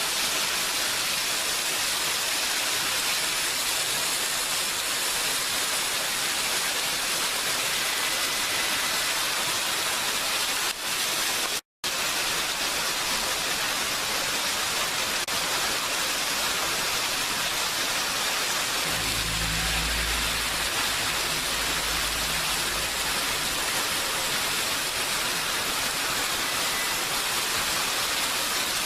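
Steady heavy rain, an even hiss, with a split-second gap of silence a little before the middle. A low rumble runs underneath for about four seconds in the second half.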